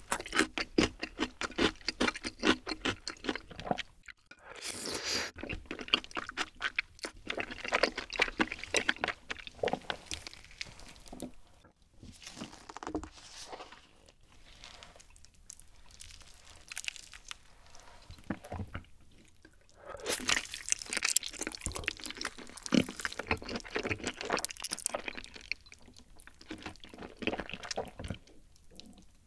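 Close-miked eating sounds: wet chewing of rice cakes in creamy rosé tteokbokki sauce, and bites into a grilled, glazed chicken leg dipped in cheese sauce, with a crunch from the skin.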